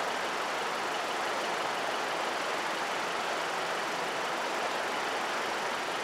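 Steady mechanical hiss and hum from a stopped NJ Transit commuter train idling at the platform, even throughout with no rhythm or strikes.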